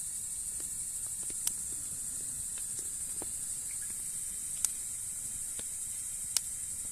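Wood fire burning with a steady hiss and scattered sharp crackles, three louder pops standing out about a second and a half, four and a half and six and a half seconds in.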